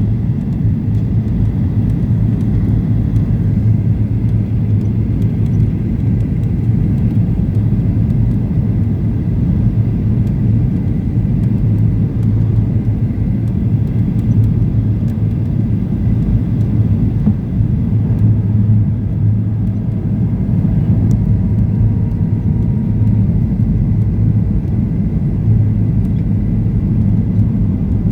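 Steady low cabin rumble inside a Boeing 737-800, the sound of its CFM56-7B engines and the airflow, with a faint steady high whine and no sudden events.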